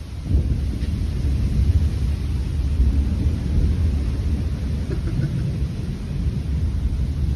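Severe storm wind buffeting the microphone as a deep, steady rumble that starts suddenly just after the beginning.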